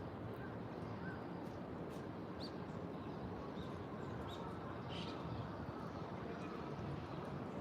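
Birds chirping: short, separate high chirps every half second to a second, over a steady low background noise of outdoor ambience.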